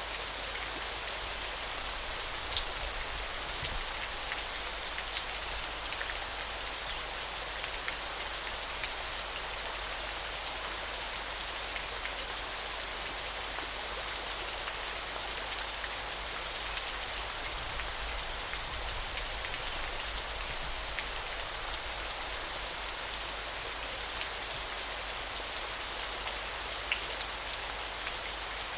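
River water running in a steady, even rush. A high, thin trill comes in short bouts of one to two seconds near the start and again in the last third.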